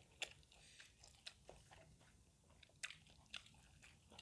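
Faint chewing and crunching of food, with a scatter of small sharp clicks.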